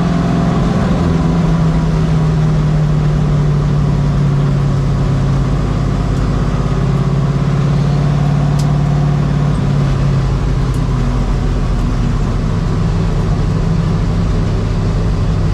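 Race truck engine running steadily at low revs, a constant drone whose pitch drops slightly about eleven seconds in.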